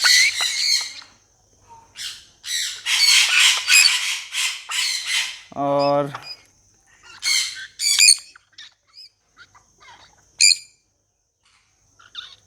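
Young parrots (African grey and sun conure chicks) squawking harshly in a run of calls. There is a short low call about six seconds in, then a few brief sharp calls.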